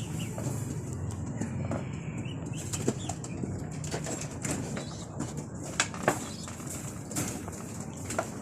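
Pigeons flapping their wings in short, scattered flutters, over a steady low hum.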